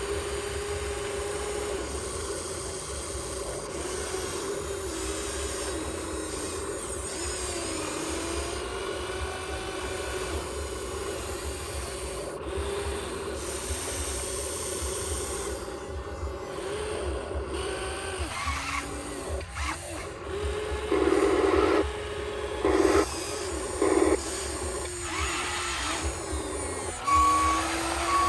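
Small electric motors and gearboxes of RC construction toys whining, the pitch rising and dipping as the controls are worked. In the second half come several louder bursts of grinding, and near the end a couple of short beeps.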